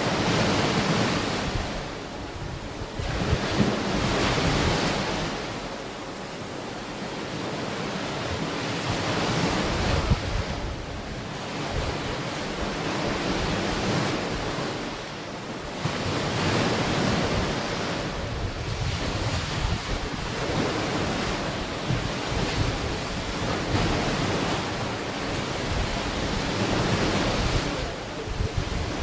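Ocean waves breaking and washing onto a shore, the surf swelling and ebbing every few seconds, with wind buffeting the microphone.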